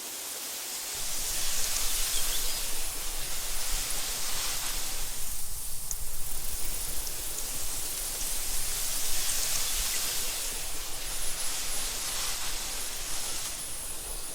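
Wind blowing across an open grass meadow in gusts, swelling and easing with a lull about halfway through, and a low rumble that comes in about a second in.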